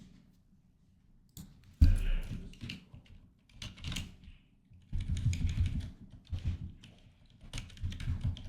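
Typing on a computer keyboard: clusters of quick keystrokes that start after about a second of quiet and go on in bursts.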